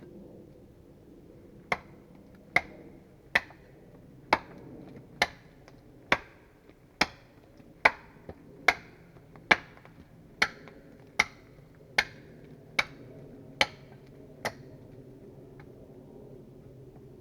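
Hand tool striking wood in a steady rhythm, about one blow a second, some sixteen sharp knocks that stop about 14 seconds in.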